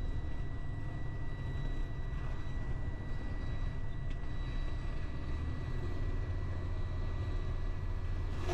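Delivery truck's engine running, heard from inside the cab: a steady low rumble that deepens into a stronger drone about five seconds in as the truck starts up a hill, with a faint steady high whine over it.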